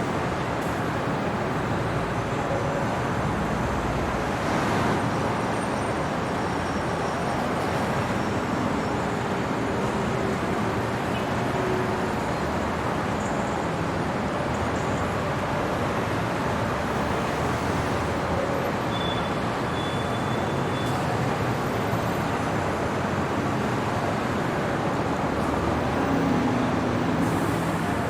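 Steady city traffic noise: a continuous hum of passing road vehicles, swelling slightly a few times as nearer vehicles pass.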